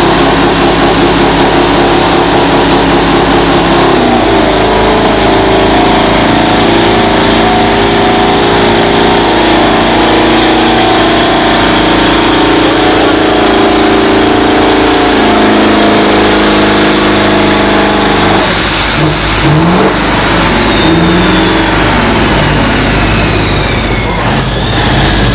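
Tractor-pulling tractor's engine running loud, going to full throttle about four seconds in with a high turbocharger whine held for some fourteen seconds. Near the end the throttle comes off: the engine note drops and the whine glides steadily down.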